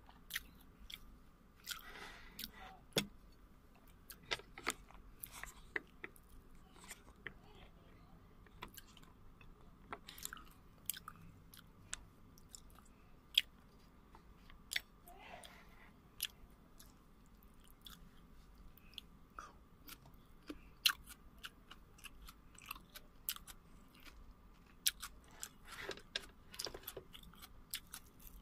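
A person chewing and biting mouthfuls of chicken biryani, with scattered sharp mouth clicks at irregular intervals.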